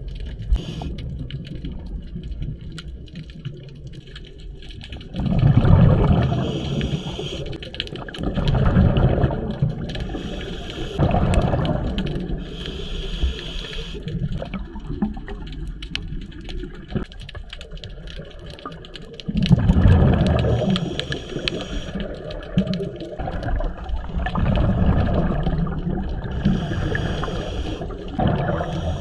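Scuba diver breathing through a regulator underwater: exhaled bubbles rush out in loud surges several times, between short inhalation hisses, over a steady underwater rumble.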